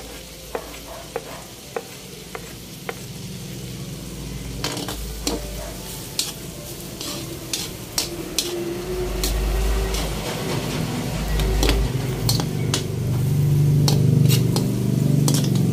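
Garlic, ginger and tomato sautéing in melted margarine in a metal pot, sizzling while a metal spoon stirs them, clinking and scraping against the pot. It grows louder near the end.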